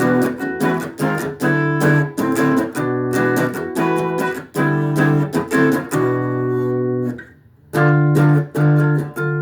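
Guitar playing an instrumental piece: repeated plucked and strummed chords, with a short break about three-quarters of the way through before the chords resume.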